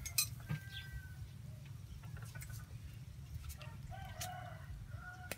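Faint bird calls: a few short pitched calls, with scattered sharp clicks over a low steady rumble.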